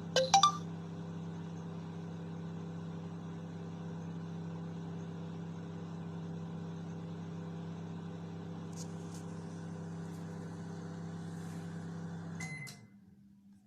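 Microwave oven running with a steady low hum while heating water, working again after its blown fuse was bridged with wire. A couple of sharp clicks come right at the start, and the hum cuts off with a click near the end.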